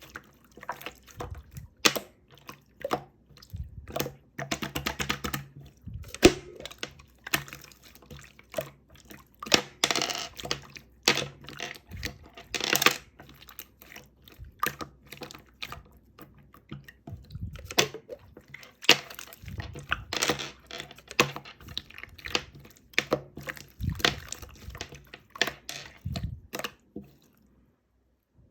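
Slime with small plastic heart parts mixed in being squished, pressed and poked by hand, making irregular wet clicks, pops and crackles with a few longer squelches. It goes briefly quiet near the end.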